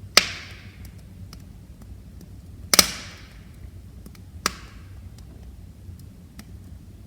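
Wood fire in a fireplace crackling: three loud sharp pops about two seconds apart, the middle one a double crack. Faint small ticks come between them over a low steady rumble.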